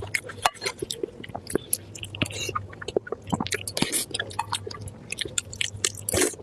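Close-miked chewing of food: rapid wet smacks and clicks of the mouth and tongue, several a second, over a faint steady low hum.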